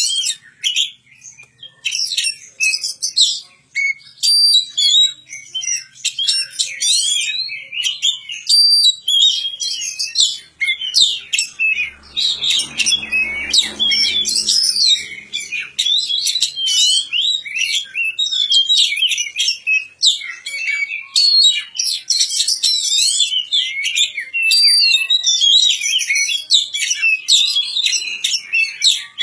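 Oriental magpie-robin (kacer) singing a long, varied song of rapid whistles, chirps and trills with hardly a pause.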